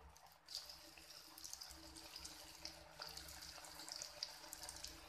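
Breadcrumb-coated paneer cubes frying in hot oil on a low flame: a faint, steady sizzle with many small crackles.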